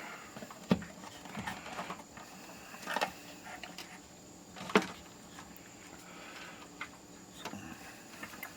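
Scattered light clicks and knocks of small parts and tools being handled while an 8-track player's power supply is put back together, the loudest a little past halfway.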